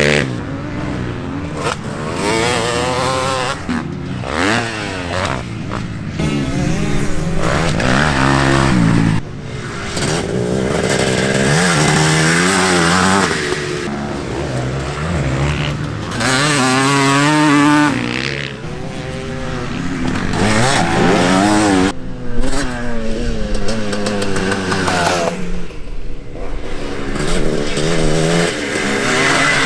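Several vintage motocross bikes riding the track, engines revving up and falling back again and again through gear changes and passes, with overlapping bikes near and farther away.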